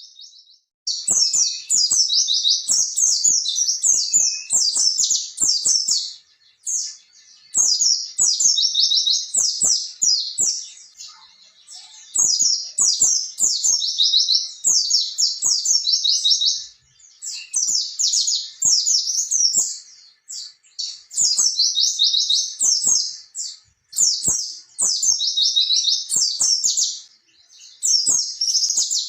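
Pleci (white-eye) singing a fast, high-pitched chattering 'ngerol' song in runs of a few seconds with short pauses between them, with faint ticks underneath.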